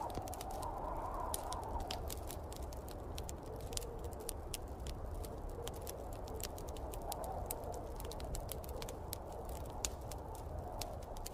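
Wood fire crackling in a fireplace, with many sharp pops over a steady low rumble, and snowstorm wind swelling now and then, most plainly near the start and about seven seconds in.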